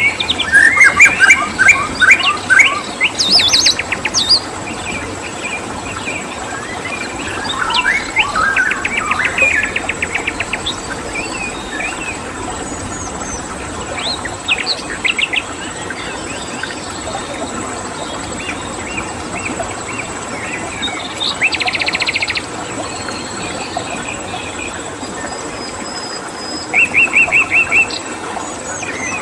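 Mixed wild birds singing: many short chirps and whistles, busiest in the first ten seconds, with several fast rattling trills scattered through, over a steady background of running water and a thin, constant high insect tone.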